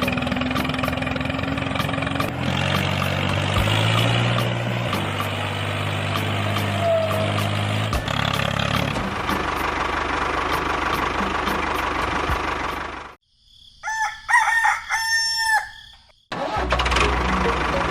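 A small engine running with a rapid ticking. About thirteen seconds in it cuts out abruptly, a rooster crows for about two seconds in the gap, and the engine sound cuts back in.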